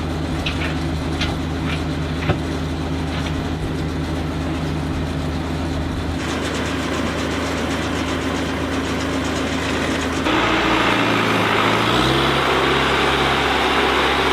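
Engine of the boatyard's haul-out equipment running steadily. About ten seconds in its pitch shifts and it gets louder as it works harder.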